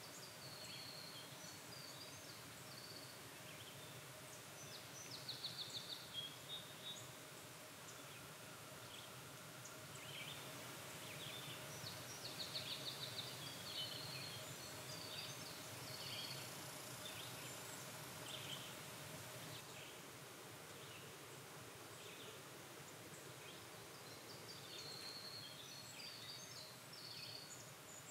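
Songbirds singing in a quiet natural ambience, with a couple of short rapid trills among scattered phrases, over a faint steady background hiss.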